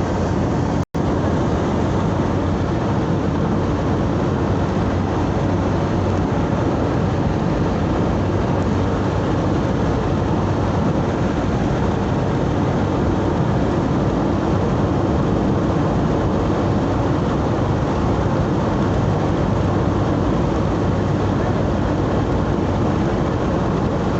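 Steady road and engine noise of a moving vehicle heard from inside, with a low rumble. The sound cuts out for an instant about a second in.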